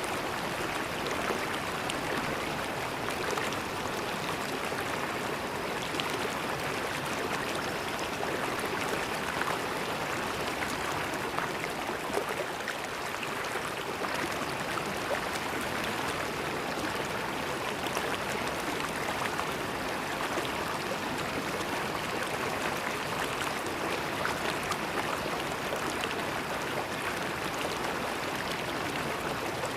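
Small river flowing over stones, a steady rushing and gurgling with fine splashes.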